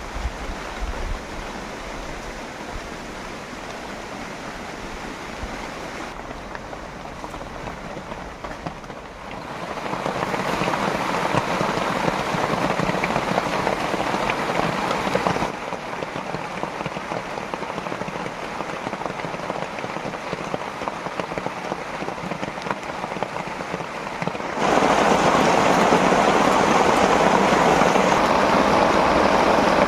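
Heavy rain falling, a dense steady hiss of drops that jumps abruptly louder or quieter three times.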